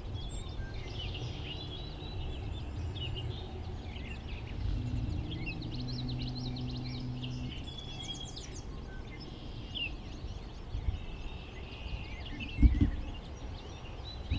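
Outdoor ambience with small birds chirping and calling faintly throughout over a low rumbling background. A low steady hum rises for a few seconds around the middle, and there is a single sharp thump near the end.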